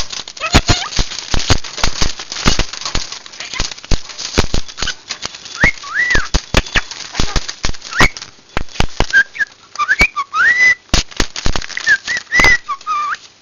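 Young pet birds moving about with a dense run of sharp clicks and taps, and from about halfway short whistled calls that rise and fall.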